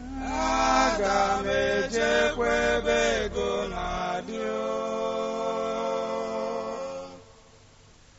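Singing or chanting voice: a run of short melodic notes, then one long held note from about four seconds in that stops abruptly near the end.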